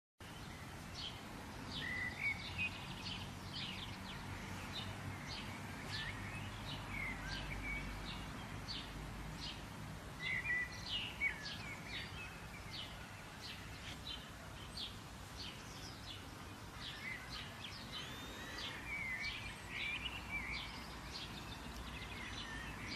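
Several birds chirping and calling over a steady outdoor background hiss: many short, sharp notes repeat throughout, with warbling phrases mixed in.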